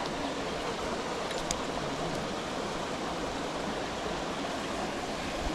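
Steady rush of flowing mountain-stream water, with a small click about one and a half seconds in.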